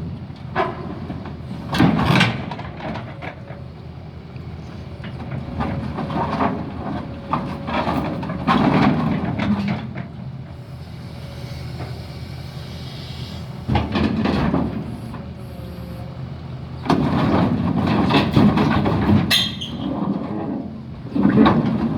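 Heavy diesel machinery, most likely the Doosan excavator's own engine, running under load, with repeated louder spells of metal clanking and grinding. A short high screech comes near the end, as steel drags across steel.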